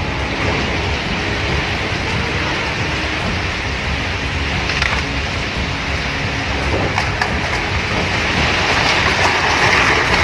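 Heavy rain and strong gusting wind in a storm, the wind buffeting the microphone as a steady low rumble under the hiss of the rain, which swells near the end.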